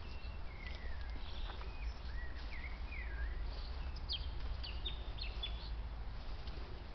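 Birds calling: a run of short whistled notes that glide down and up, then quick high chirps in the second half, over a steady low rumble.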